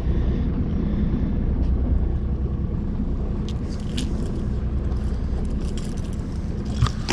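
Boat engine idling with a steady low rumble, a few faint clicks over it.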